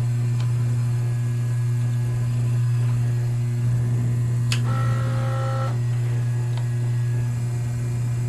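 Steady electrical hum from the dyno-room equipment. About halfway through, a click is followed by a short electronic beep of several steady tones lasting about a second.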